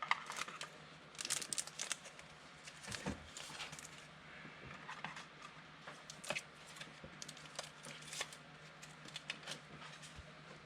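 Faint crinkling and rustling of football trading card packs and cards being handled, with light scattered clicks and a busier stretch about a second in.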